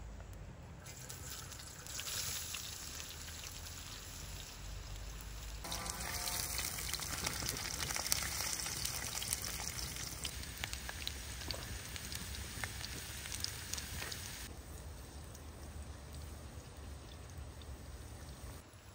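Food frying in hot oil in a pan: a steady sizzle with scattered crackles, loudest in the middle and shifting in level abruptly a few times.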